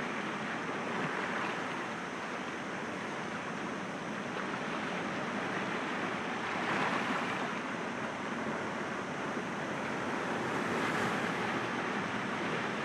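Sea waves washing and breaking against rocks: a continuous rush of surf that swells a little about halfway through and again near the end.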